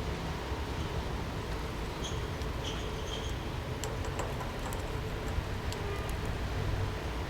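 Budgerigar giving a few brief, faint high chirps about two to three seconds in, with scattered light clicks, over a steady low rumble of background noise.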